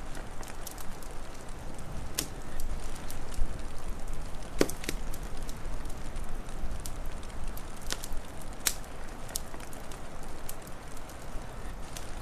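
Wood fire crackling, with sharp pops scattered irregularly, the loudest about four and a half seconds in, over a steady low rushing background.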